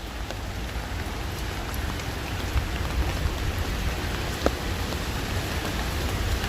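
Steady rain and hail falling: an even hiss with a few scattered sharp ticks of hailstones striking, over a low rumble.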